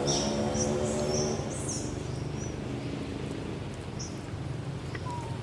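Short high squeaks from a small animal, several in the first two seconds and one more near the end, over a low steady hum that fades out about a second and a half in.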